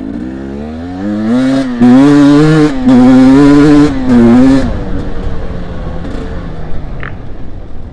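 Dirt bike engine revving: the pitch climbs over the first two seconds and is held high and wavering for a few seconds, then drops back to idle about five seconds in.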